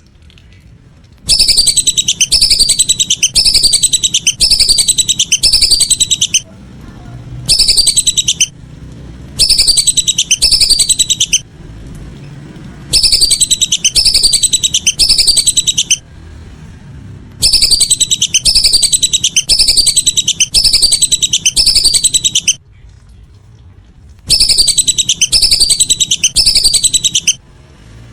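Lesser whistling ducks (belibis) calling: loud, high, falling whistles repeated rapidly in runs of one to five seconds, broken by short pauses.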